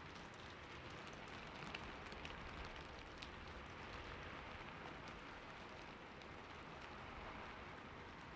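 Steady rain falling on a roof, an even hiss with scattered sharp ticks of individual drops, a few of them louder between about two and three seconds in.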